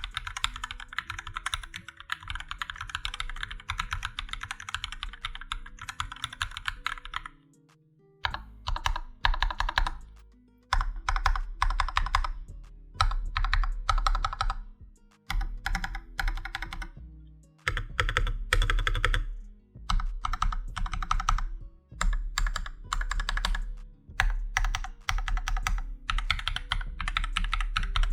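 MonsGeek MG108 full-size mechanical keyboard with Akko CS switches: fast continuous typing for the first several seconds. After a short pause come bursts of repeated presses on the keyboard's large stabilized keys, a stabilizer test, over background music.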